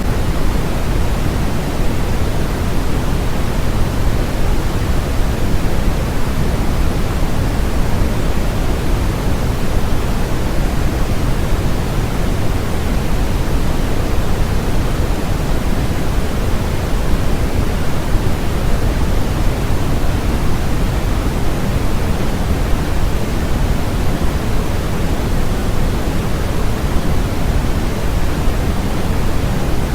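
Continuous electronic white-noise track: a steady, unbroken rushing hiss with no changes. Its weight sits in the low end, so it sounds deeper than flat white noise, closer to pink noise.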